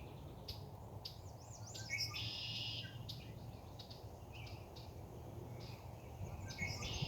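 Small birds chirping and singing, with short buzzy trills about two seconds in and again near the end, over a low steady background hum.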